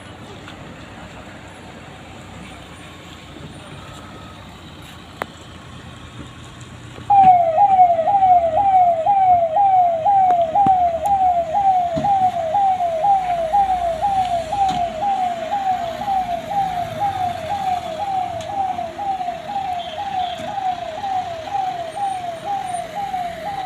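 A vehicle's electronic siren switches on suddenly about seven seconds in and keeps sounding a fast, loud yelp: a falling tone repeated about twice a second. Before it, only low steady background noise.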